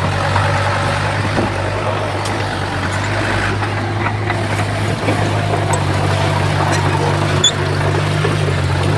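Heavy diesel earthmoving machinery running steadily: a constant low engine drone with a noisy mechanical rumble and a few faint clanks.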